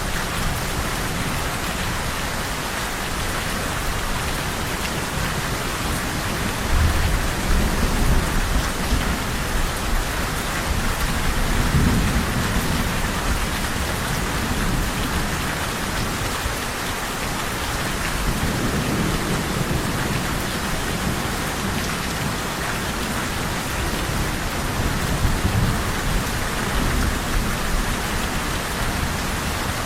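Steady heavy rain, with low rolls of thunder swelling and fading about four times.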